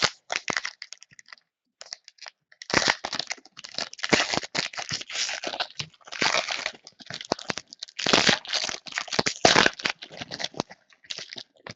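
Plastic trading-card packaging being handled by hand: an irregular run of crinkling and crackling, with tearing, that goes on for most of the stretch.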